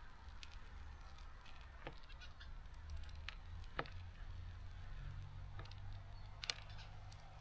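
Scattered sharp taps and clicks of small birds pecking seeds and landing at a garden seed feeder, a few seconds apart, over a faint low rumble, with a few brief high chirps.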